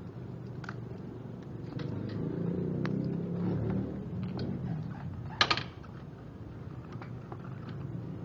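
Ducati Monster's L-twin engine running with a low, steady sound that grows louder for a couple of seconds, then falls back. About five seconds in there is one sharp click or knock, the loudest sound here.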